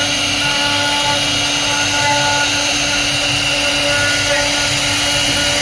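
CNC router spindle running steadily, a constant machine whine made of several held tones.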